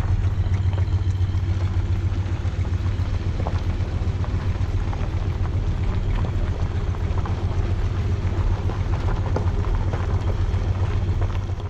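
Car engine running steadily with a strong low rumble, cutting off abruptly at the end.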